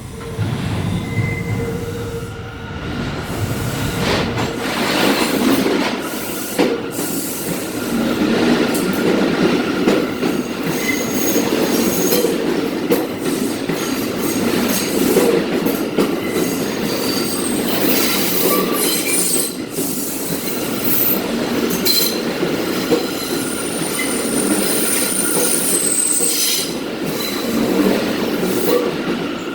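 R179 subway train running through the station, wheels rumbling and clattering on the rails under a steady high tone, with thin high-pitched wheel squeals coming and going, most often in the second half.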